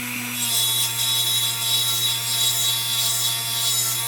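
An electric power tool runs steadily with a humming motor tone, and about half a second in, an abrasive scrubbing against metal begins as paint is stripped from the lantern, bringing the embossed maker's name out.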